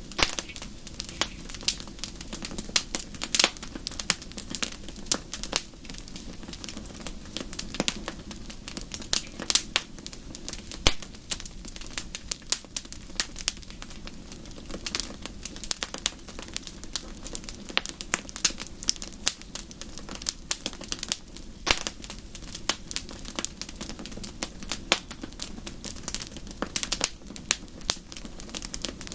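Wood fire in a fireplace crackling steadily, with dense irregular snaps and pops over a low rumble of the flames.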